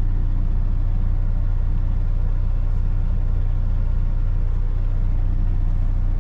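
Steady low drone of a Kenworth T680 semi truck's diesel engine and road noise, heard inside the cab while driving.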